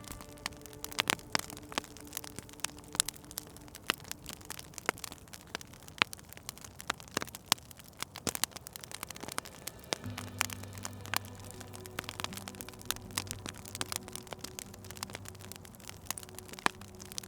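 Wood fire crackling, with frequent irregular sharp pops, some much louder than others. A soft sustained low tone sits underneath and drops to lower notes about ten seconds in.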